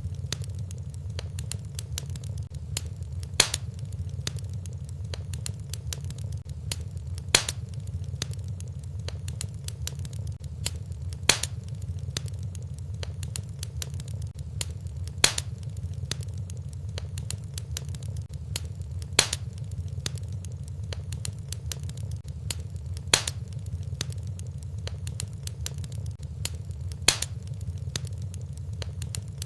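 Wood fire in a fireplace crackling over a steady low rumble, with many small ticks and a louder sharp pop about every four seconds.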